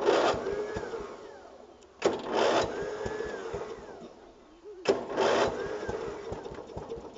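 Lawn tractor engine being cranked three times, each attempt starting suddenly and fading out over a second or two without the engine staying running.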